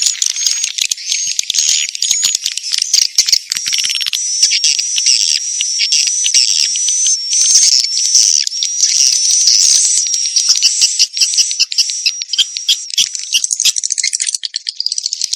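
Recorded edible-nest swiftlet lure call: a dense, high-pitched chatter of rapid clicking twitters and chirps with a repeating thin whistle-like note. It is the kind of sound played in a swiftlet house to draw birds in.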